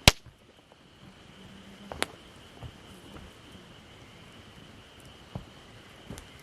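Sharp cracks of wood being snapped or split for a campfire: a loud one right at the start, another about two seconds later and a few lighter knocks after, over a faint steady drone of insects.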